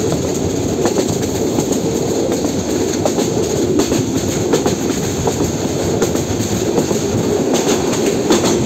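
A passenger train running along the track, heard from on board: a steady loud rumble with scattered sharp clicks from the wheels and rails.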